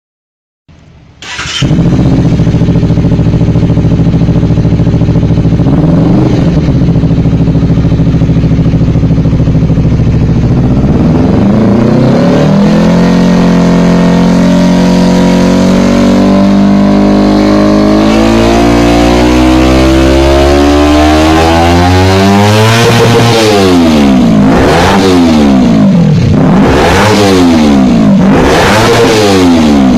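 Honda CBR250RR parallel-twin engine and exhaust starting up about a second and a half in, then idling steadily. From about ten seconds in the revs climb slowly, and in the last several seconds the throttle is blipped four or five times, each rev rising and falling quickly.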